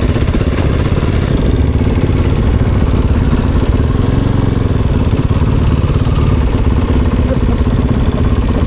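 A motorcycle engine running steadily, with a dense, rapid low-pitched pulsing.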